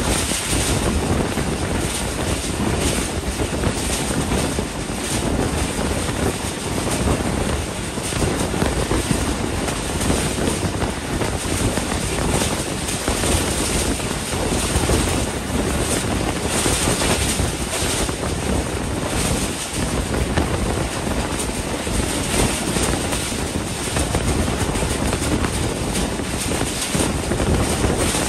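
Passenger train running at speed, heard from an open carriage door: a steady rush of air and running noise from the wheels and rails, with wind buffeting the microphone.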